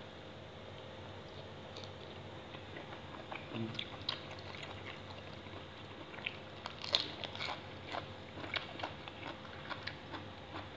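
Close-up crunching and chewing of raw shrimp chilled crisp in fish sauce, eaten with fresh leafy greens: irregular crisp crunches from a few seconds in, loudest about two-thirds of the way through.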